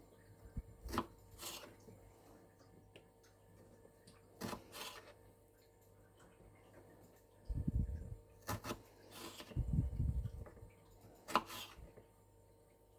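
Kitchen handling sounds: scattered light clicks and knocks of things being picked up and set down, and two short spells of low thumping a few seconds in. A faint steady appliance hum runs underneath.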